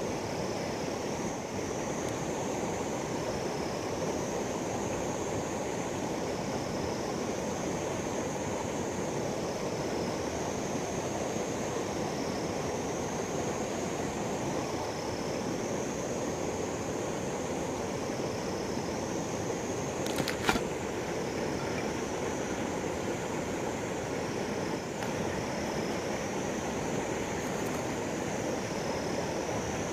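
Steady rush of river water. Over it runs a high-pitched whine that wavers in a regular cycle about every two and a half seconds, and a single sharp click comes about two-thirds of the way through.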